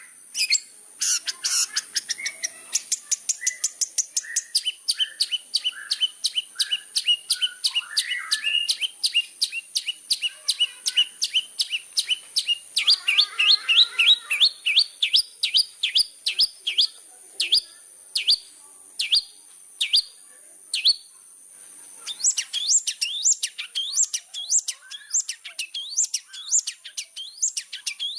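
Long-tailed shrike (cendet) singing vigorously: a fast, rhythmic run of sharp high notes, each sweeping downward, several a second, mixed with some lower warbling. The song breaks off briefly about three-quarters of the way through, then starts again.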